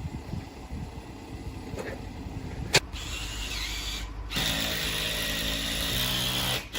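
A power tool runs for about two seconds near the end, with a steady whine that steps down in pitch shortly before it stops. A single sharp click comes before it, over a low rumble.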